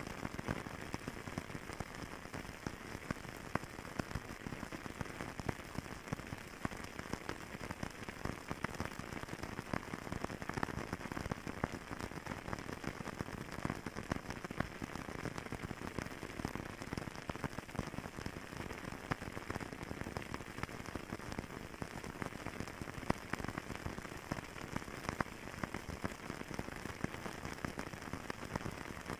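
Wood fire crackling in a fireplace: a steady hiss dotted with many small, irregular pops and snaps.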